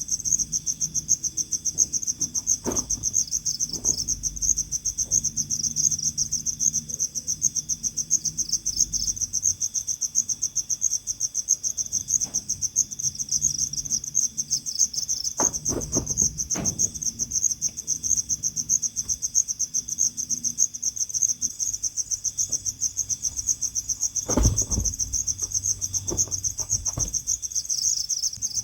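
Cricket chirping steadily in a rapid, high-pitched trill, with a few brief knocks or rustles, the loudest about three-quarters of the way through.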